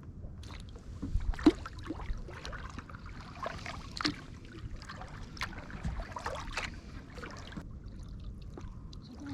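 Kayak paddling: irregular splashes and drips of water from the paddle blades, the strongest about one and a half and four seconds in, over a low steady rumble.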